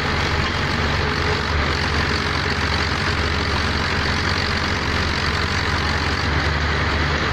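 A heavy engine running steadily, a low even hum with a constant hiss over it.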